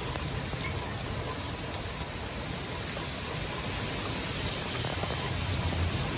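Hurricane rain and wind: a steady rushing noise with a low, fluctuating rumble underneath.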